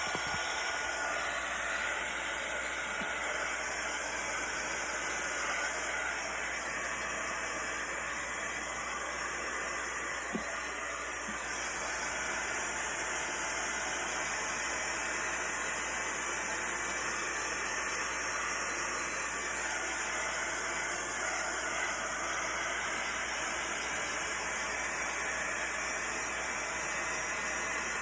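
Electric heat gun blowing steadily: a constant, even hiss of hot air.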